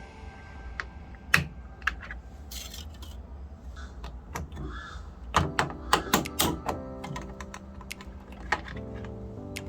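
A series of sharp clicks and light knocks, bunched about five to seven seconds in, like small objects being handled or buttons being pressed.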